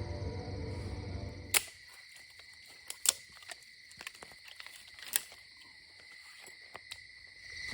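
Night ambience: a steady, high insect trill, typical of crickets, with scattered sharp clicks and snaps. A fuller, rumbling sound cuts off abruptly about a second and a half in, leaving the quieter trill.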